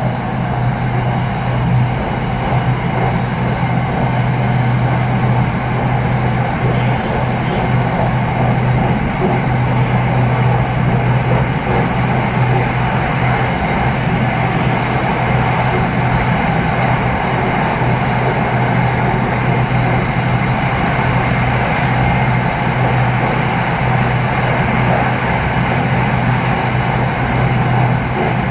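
SRT Red Line electric commuter train, a Hitachi AT100 multiple unit, running at speed between stations, heard from inside the passenger car: steady running noise under a constant low hum.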